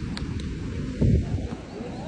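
Wind buffeting the microphone, a rumbling low noise with a stronger gust about a second in.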